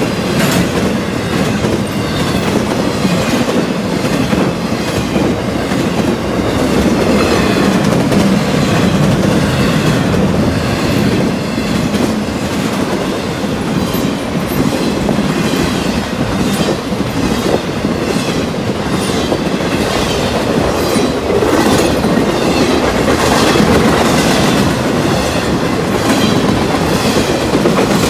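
Intermodal freight train of truck trailers on railcars rolling past close by: a steady loud rumble of wheels on rail, with a constant run of clicks as the wheels pass over rail joints.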